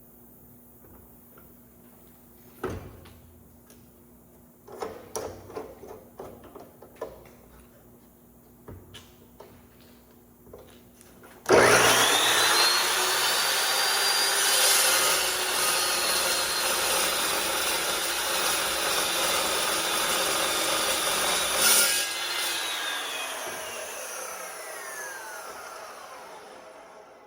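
Evolution cold cut metal saw starting with a rising whine about halfway through and cutting through steel stock for about ten seconds, then switching off and spinning down with a falling whine. Before it, a few clicks and knocks of the metal being handled and clamped.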